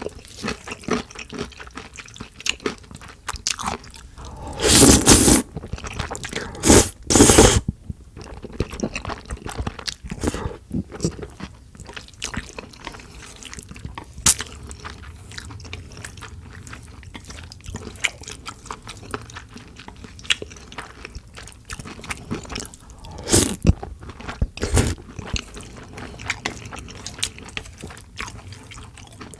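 Close-miked chewing and wet mouth sounds of someone eating jajangmyeon (black bean noodles), with a few louder bursts about five, seven and twenty-four seconds in.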